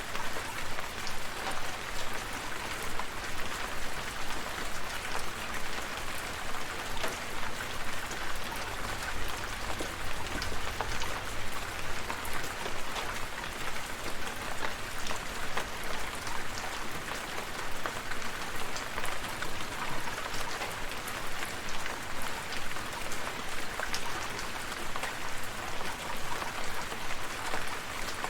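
Steady rain falling, with fine drops pattering on surfaces, and a faint low rumble in the middle.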